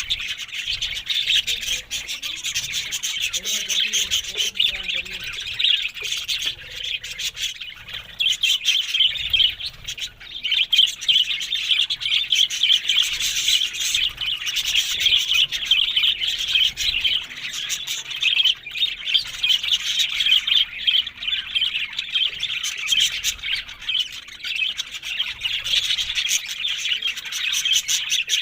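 Budgerigars chattering and warbling without a break, a dense stream of high chirps with faint clicks mixed in.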